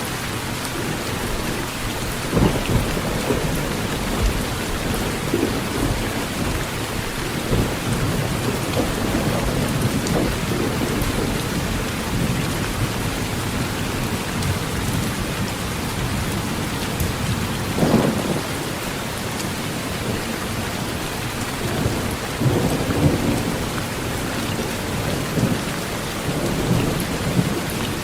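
Heavy rain drumming steadily on a tin roof, with thunder rumbling low again and again; the sharpest crack of thunder comes about two-thirds of the way through.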